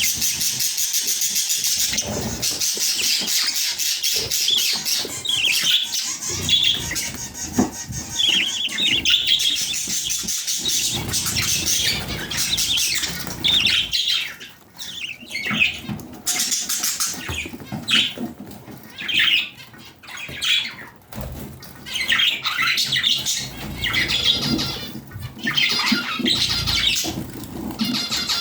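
Budgerigars chattering: many short, high, irregular chirps, with a fast run of high ticking in the first two seconds.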